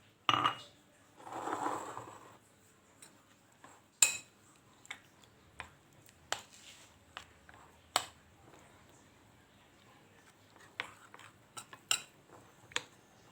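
A utensil stirring flour-and-egg batter in a bowl, clinking and knocking against the bowl at irregular moments. A short splashy rush about a second in, as a little more water goes into the batter.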